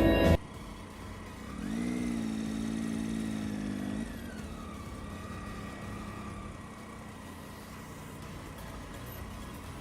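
Motorcycle engine rising in pitch about a second and a half in, holding steady for a couple of seconds, then easing off, over steady road noise.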